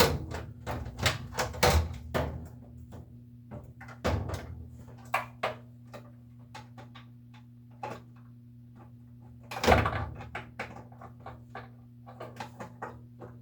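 Scattered knocks and clicks of washer parts and tools being handled during a repair, with one louder bang a little under ten seconds in, over a steady low hum.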